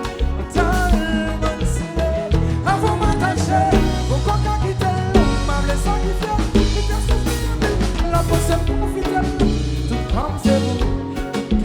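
Live Haitian kompa band music: a drum kit and percussion under a sung melody.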